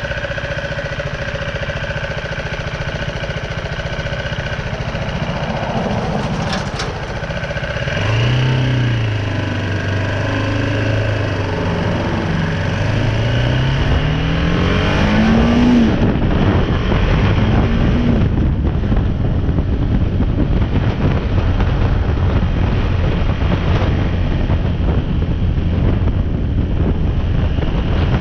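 BMW G310R's single-cylinder engine idling, then pulling away about eight seconds in, its pitch rising through a gear and dropping at a shift near the middle before climbing again. The bike then runs on at speed with a steady rush of wind on the microphone.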